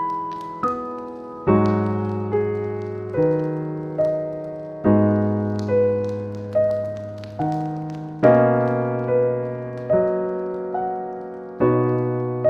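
Slow, gentle solo piano music: single notes and chords are struck and left to fade, with a deep bass note entering every couple of seconds.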